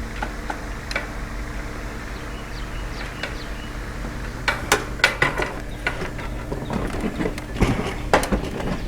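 Sharp knocks and clicks of chicken coop parts and bolt hardware being handled while a bolt is started by hand, in two clusters: one about halfway through and another near the end. A steady low hum runs underneath.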